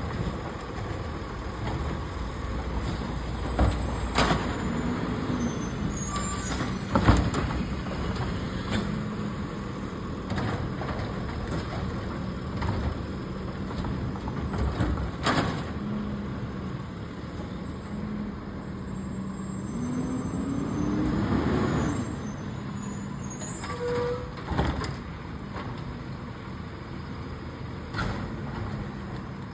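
Garbage truck engine running steadily, with several sharp clanks and bangs. Its engine revs up for about two seconds some two-thirds of the way through.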